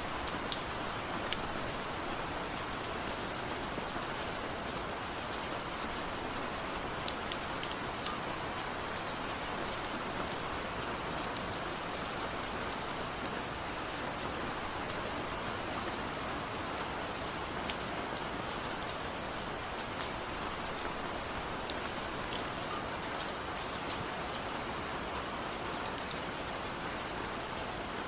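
Steady rain falling on surfaces, an even hiss with many sharp individual drop ticks scattered through it.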